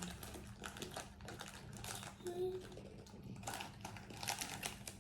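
Faint, irregular crackles and clicks of a plastic snack wrapper being handled and opened.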